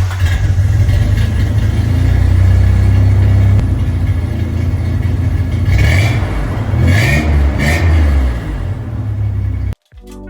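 1993 Toyota pickup engine running through its exhaust, a loud steady low rumble, blipped three times in quick succession in the second half. It cuts off suddenly near the end.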